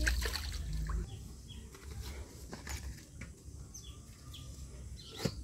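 Small birds chirping, short high calls at irregular intervals. In the first second, water sloshing in a basin as hands wash the roots, and a single sharp knock near the end.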